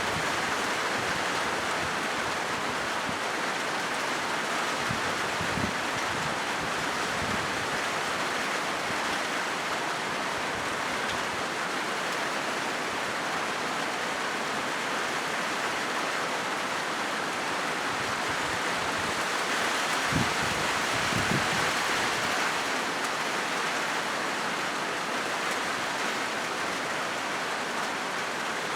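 Steady rain falling on a corrugated zinc roof, a dense, even patter, with a few brief low thumps about six seconds in and again about twenty seconds in.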